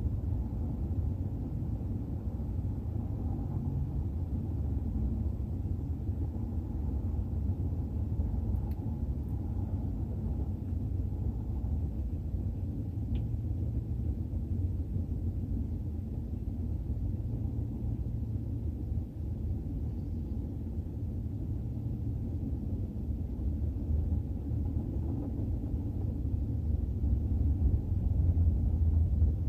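BNSF intermodal freight train rolling past, its container and trailer cars giving a steady, low rumble of wheels on rail.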